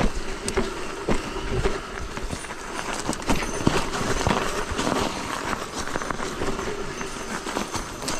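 Electric mountain bike riding over a rough snowy trail: frequent irregular knocks and rattles of the bike over bumps, over a steady rush of tyre and wind noise.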